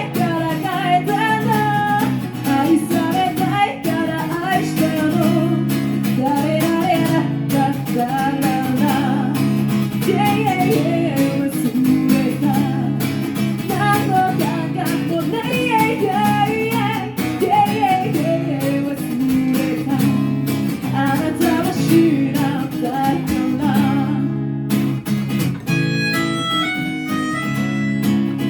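Live music: acoustic guitar strumming under a singing voice, and near the end a harmonica comes in playing a line of short stepped notes.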